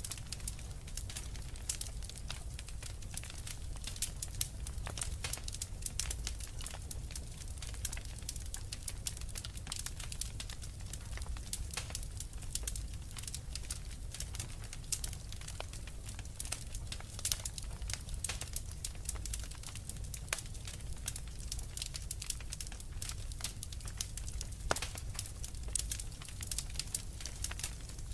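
Wood fire in a fireplace crackling, with a steady low rumble of burning and frequent irregular sharp pops and snaps.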